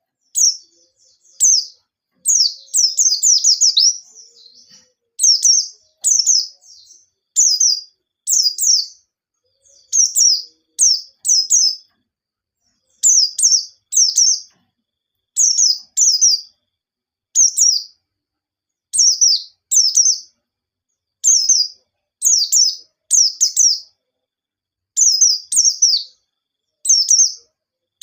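Pleci (white-eye) singing: short, high, rapid phrases of falling notes, often in pairs, repeated about once a second with brief pauses between.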